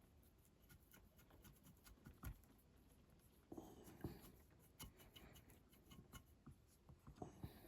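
Near silence with faint scratching and a scatter of small clicks and taps from hand work on a diecast toy car at the bench.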